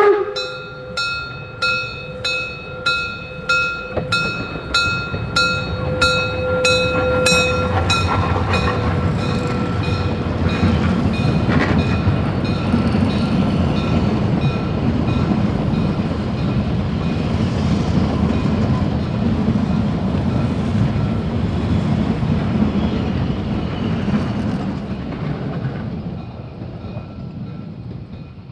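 Narrow-gauge 2-10-2 tank steam locomotive 99 1741-0 working hard, its exhaust beats coming about two a second and quickening until they merge into a continuous roar. The train runs past with its wheels clattering, and the sound fades near the end.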